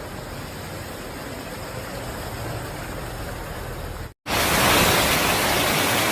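Steady rushing noise of a heavy rainstorm and floodwater. It breaks off for an instant about four seconds in and comes back louder.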